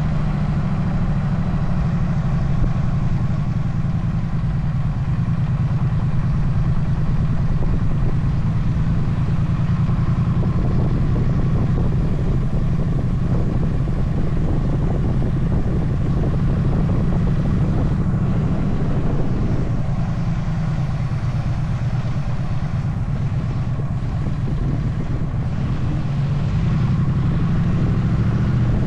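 Motorcycle engine running steadily while riding, its note shifting a little about twenty seconds in.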